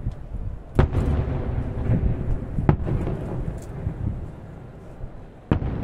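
Aerial firework shells bursting: three sharp bangs, about a second in, near the middle and near the end, over a continuous low booming of other bursts echoing.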